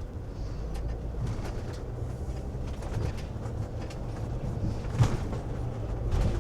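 Low, steady rumble of a 2016 Winnebago View motorhome's diesel engine and road noise while it drives slowly, with a single sharp knock about five seconds in.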